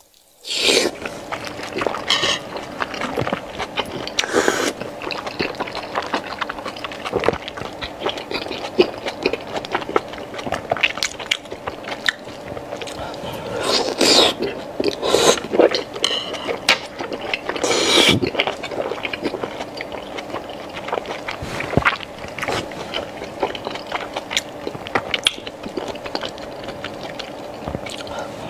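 Close-miked chewing and biting of braised pork intestine: a steady run of small wet clicks and smacks, with louder bites now and then.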